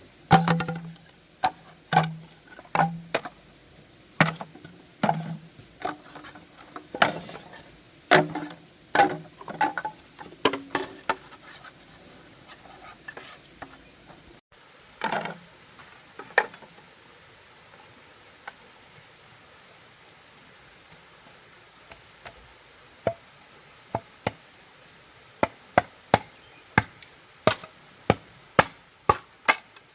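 Irregular knocks of a hand tool striking wood, as in hammering or chopping. After a cut, a run of sharp taps comes about twice a second near the end. A steady high insect drone runs behind.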